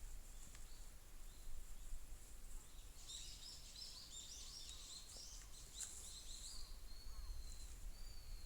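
Small bird calling outdoors: a quick run of high chirps starts about three seconds in, followed by thin drawn-out high whistles near the end.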